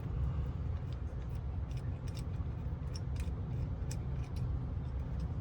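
Drill bit cutting through a small plastic model part by hand: faint, irregular clicks and scrapes over a low steady hum.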